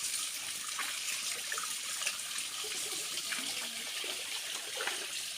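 Water running steadily from a tap or spout, pouring for a bath.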